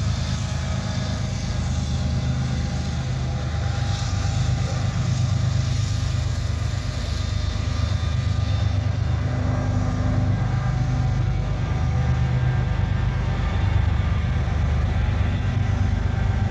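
Diesel-powered freight train passing, its locomotive engine giving a steady low drone with the rumble of the cars rolling by.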